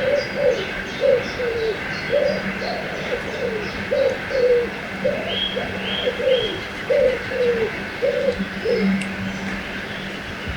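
A bird repeating a low two-note call, the second note falling, about once a second, stopping near the end. Higher chirps from other birds come over a steady rush of river water.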